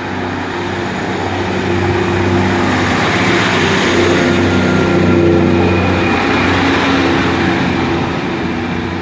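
Class 150 Sprinter diesel multiple unit pulling out of the station, its underfloor diesel engines working hard as it accelerates. The sound builds to a peak about five seconds in, then fades as the train moves off.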